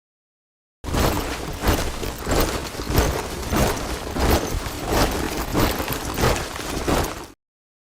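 A body of soldiers marching in step, their boots striking the ground in unison about three times every two seconds. It starts about a second in and cuts off suddenly near the end.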